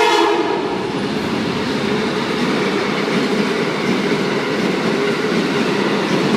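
Amtrak passenger train passing at speed: its horn cuts off about half a second in, then a loud, steady rumble and rattle of wheels on the rails as the cars go by.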